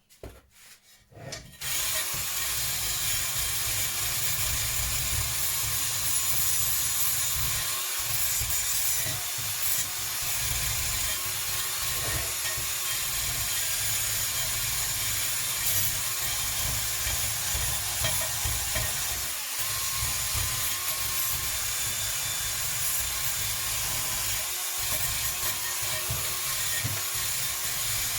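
A power tool running steadily with a rasping hiss as it works on a part. It starts about two seconds in and has a few short breaks.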